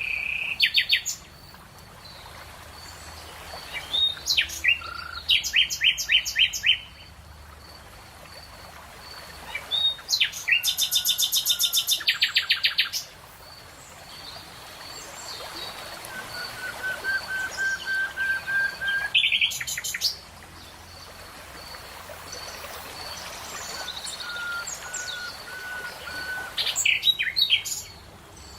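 Songbirds singing. Loud phrases of rapidly repeated high notes, each lasting one to three seconds, come back every few seconds, and in the pauses softer, evenly spaced strings of lower notes can be heard.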